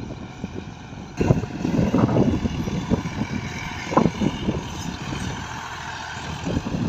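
Massey Ferguson 260 tractor's three-cylinder diesel engine running steadily while pulling a disk harrow, with wind buffeting the microphone. The sound gets suddenly louder about a second in.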